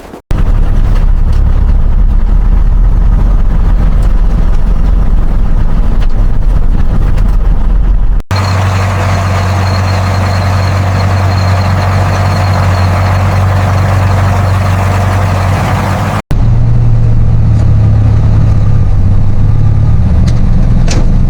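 A vehicle engine running steadily and loudly, in three stretches that each cut off abruptly, with a deep steady hum throughout.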